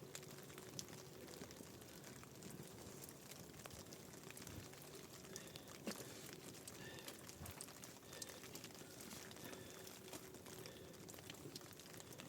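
Near silence: a faint steady hiss with scattered soft clicks.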